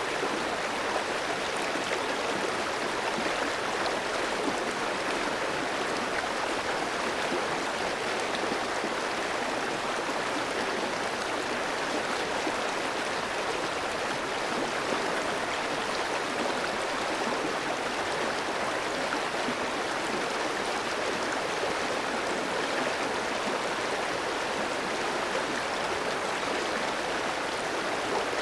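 Clear stream flowing steadily over rocks: a constant rush and burble of water.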